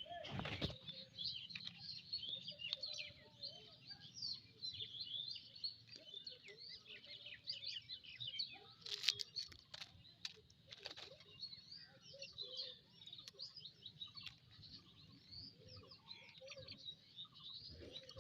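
Many small birds chirping continuously, short rapid high notes, with a few sharp clicks or knocks, the loudest about halfway through.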